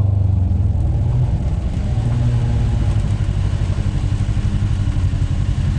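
Kawasaki side-by-side UTV engine running steadily, with a hiss behind it.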